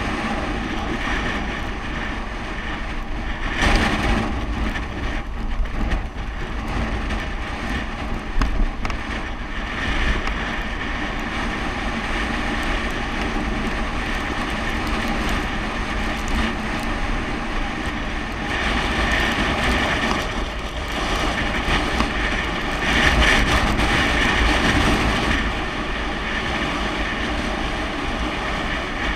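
Steady rush of wind on the microphone with rumbling road noise from a bicycle riding downhill, louder about 4 seconds in and again for several seconds near the end.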